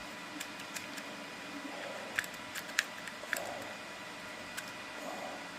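Light, sharp clicks and taps, about eight of them spread unevenly, over a faint steady hum, typical of small plastic parts being handled.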